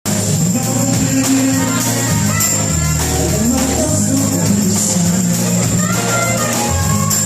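A live band playing, with a moving bass line, percussion and a steady high jingle like a tambourine; the music starts abruptly out of silence.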